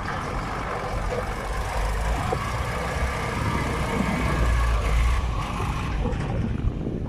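GAZ-66 truck's V8 petrol engine running under load as it drives through fresh snow, with wind buffeting the microphone as a low rumble.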